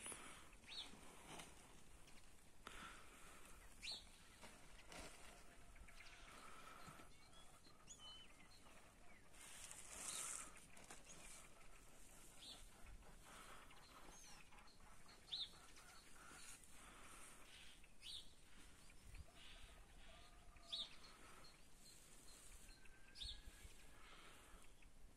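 Faint, scattered bird chirps, a short call every couple of seconds, over quiet outdoor ambience.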